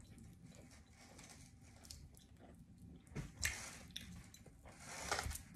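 Faint chewing and mouth sounds of someone eating chicken, with a few short smacks about three seconds in and again near the end.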